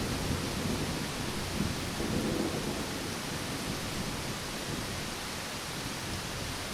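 Steady heavy rain, with a low rumble of thunder dying away over the first few seconds.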